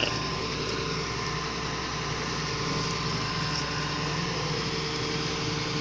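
Engine of a heavy lifting machine running steadily at a constant speed, a continuous even hum, while it holds a car engine hoisted out of the body.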